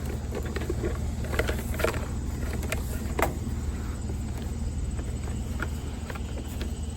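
A vehicle engine idles steadily, with a few sharp knocks and clinks in the first half.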